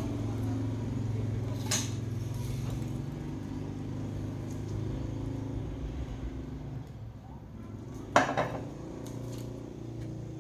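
Two sharp metallic clinks, about two seconds in and about eight seconds in, the second one louder, over a steady low hum.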